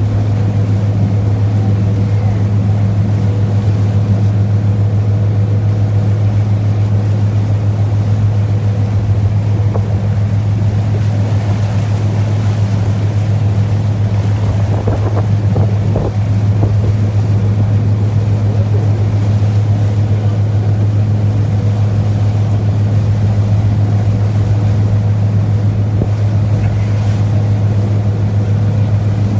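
Small passenger ferry's diesel engine running steadily, a strong unbroken low hum, with water and wind noise over it.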